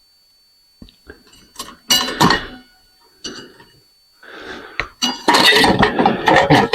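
Metal parts of a ceiling fan clinking and clattering as they are handled during disassembly. A few separate clinks and knocks come first, then a loud, continuous clatter near the end.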